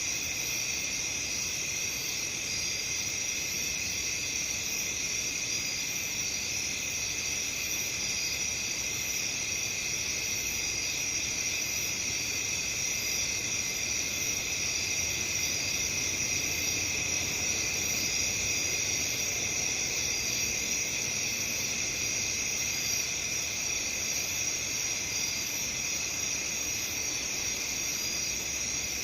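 A dense chorus of crickets chirping steadily, a continuous high-pitched trill with no breaks.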